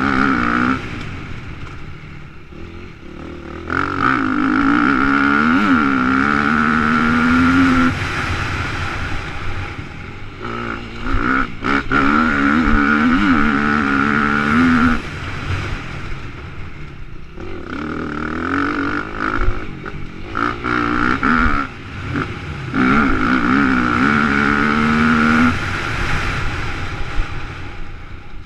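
Motocross dirt bike engine revving hard on the throttle in long pulls of a few seconds, its pitch climbing and falling through the gears. Between the pulls it drops back as the throttle rolls off, under steady wind rush on the helmet-mounted microphone.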